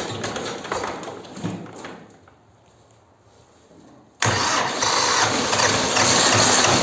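Old T-25 tractor's engine running, fading away over about two seconds as it dies, then after a short lull running loudly again, starting abruptly about four seconds in, in an attempt to start it cold after a winter of sitting.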